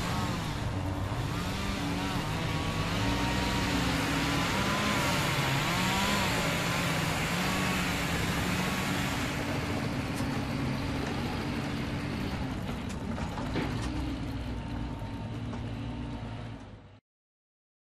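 Heavy engine noise: a steady rumble with engine tones that rise and fall in pitch, cutting off abruptly near the end.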